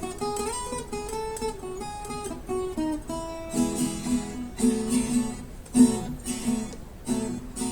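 Acoustic guitar instrumental break: a melodic run of single notes, then strummed chords in a steady rhythm from about three and a half seconds in.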